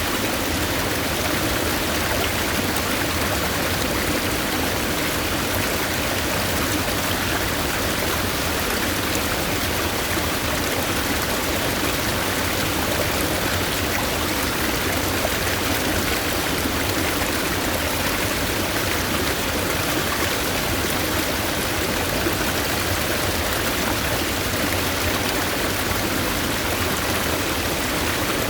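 A mountain stream running steadily over rocks, a constant rush of flowing water.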